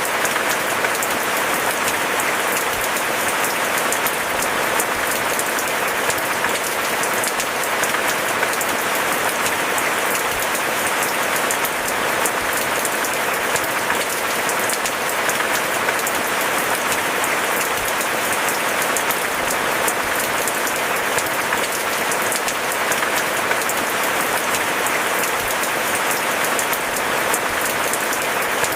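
Steady, heavy rain with a dense patter of drops, even throughout.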